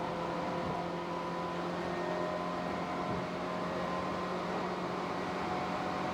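Tobu 8000 series electric train running, heard from inside the car: a steady rumble of wheels on track with faint humming motor and gear tones.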